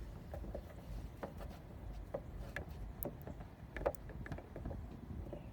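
Scattered light clicks and taps of hands working with a tube of RTV sealant and small parts while sealing a wire entry hole, over a steady low rumble.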